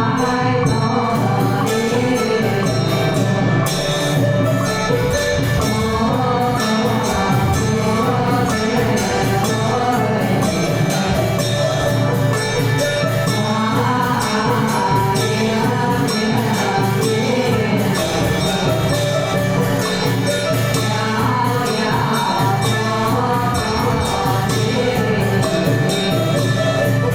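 Chanted singing with a musical accompaniment and quick, steady strokes of small percussion.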